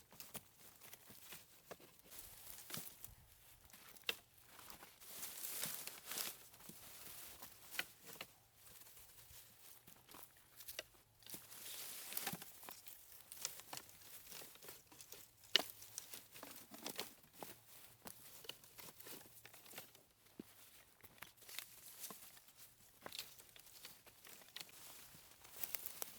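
Faint rustling and crinkling with scattered sharp clicks and snaps, as of dry leaves and twigs being handled or stepped on.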